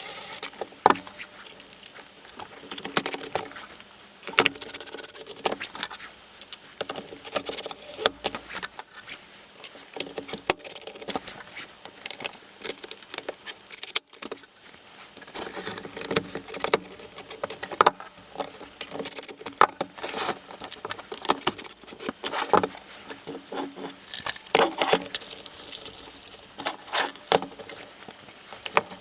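Irregular clicking and light clattering of small hard parts being handled, as the Makita cordless vacuum cleaner's plastic housing and parts are worked on by hand. There is no motor running.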